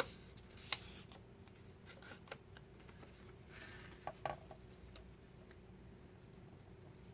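Scissors cutting paper: a few faint snips, with paper rustling in between.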